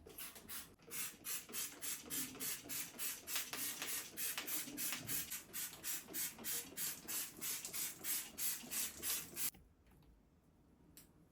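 Rapid back-and-forth scrubbing strokes with a brush or scourer on a hard surface, about three to four strokes a second, stopping suddenly near the end.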